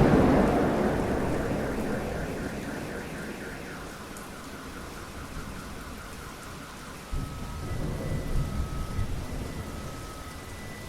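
Thunderstorm: a thunderclap's rumble rolling away and fading over the first few seconds, with steady rain throughout, and a second, lower roll of thunder starting about seven seconds in.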